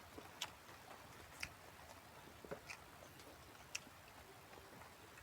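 Near silence, with a handful of faint, scattered sharp clicks.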